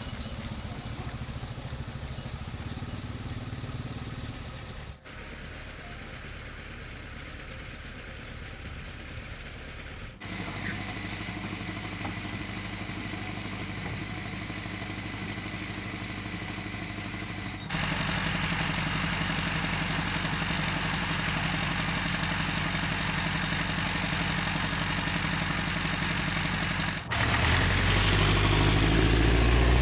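Engines of construction machinery running steadily, with a low hum. The sound changes abruptly several times, getting louder toward the end.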